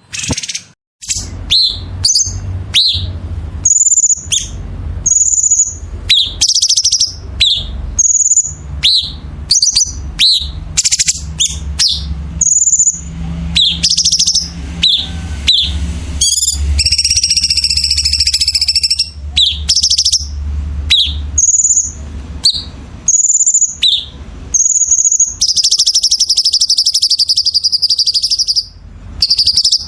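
A songbird singing without pause ('gacor'), a fast run of short, high, repeated notes, broken by longer buzzy trills around 17 seconds in and again from about 25 seconds, over a low steady hum.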